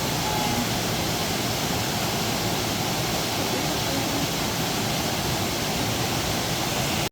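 Kagumo waterfall: a steady rush of falling water, even and unbroken.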